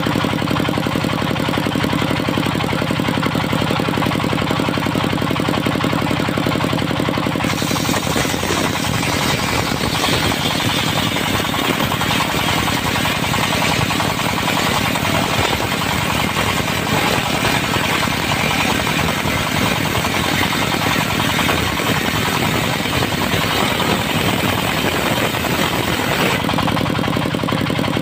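Diesel engine driving a circular sawmill blade, running steadily. About seven seconds in, the blade bites into dry teak and a loud, rough cutting hiss rides over the engine. The cut ends near the end and the engine runs on unloaded.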